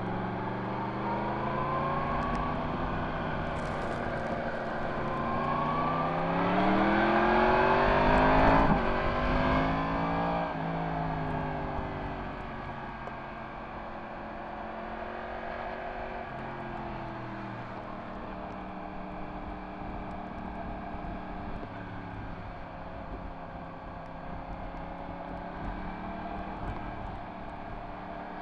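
Yamaha MT-10 SP's crossplane inline-four with an Akrapovic exhaust, ridden on the road. It revs up to its loudest about eight seconds in, then eases off and runs at lower revs with small rises and falls, under steady wind and road noise.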